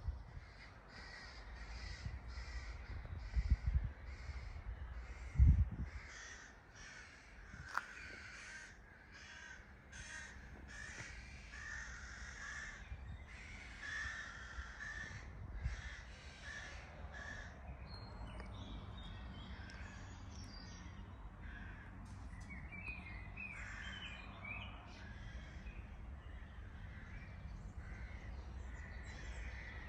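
Crows cawing over and over, harsh calls coming in quick runs through most of the stretch. Two dull low thumps a few seconds in are the loudest sounds.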